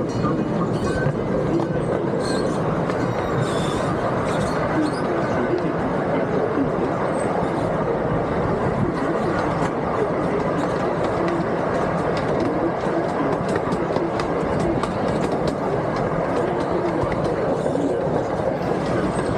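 Miniature park train in motion, heard from aboard its open passenger cars: a steady rumble of steel wheels on rail with a rapid scatter of clicks from the track.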